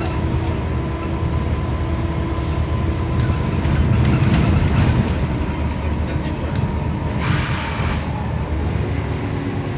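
Scania CN270UB city bus heard from inside while under way: the engine runs with a steady low drone that swells for a couple of seconds around four seconds in, and a short hiss comes about seven seconds in.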